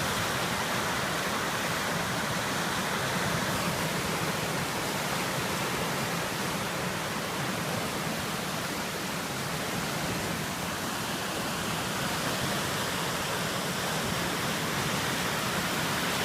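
Flooded mountain river rushing in flash flood: a steady, loud roar of fast-moving whitewater.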